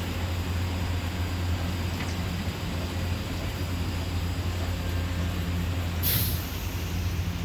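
Christ Genius Vitesse rollover car wash running with a steady low hum; about six seconds in, a short sharp hiss.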